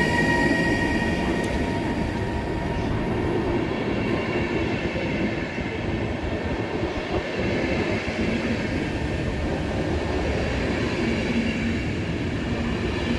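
RegioJet passenger train hauled by electric locomotive 388-228 rolling through the station, a steady rumble of wheels on track, with a high wheel-squeal tone that fades out in the first second or so.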